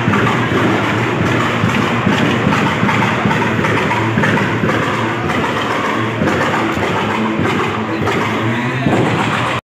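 Loud, steady engine noise from cars running nearby, with a low rumbling hum.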